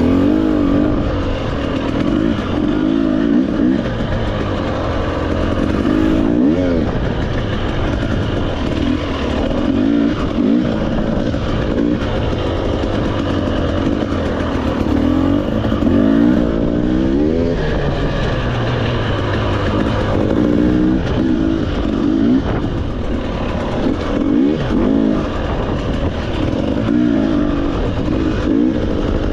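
Off-road motorcycle engine running under constantly changing throttle, its pitch rising and falling again and again, over a steady rush of noise.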